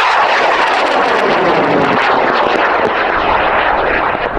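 High-power rocket motor burning: a loud, dense rushing noise that cuts in abruptly and carries on steadily.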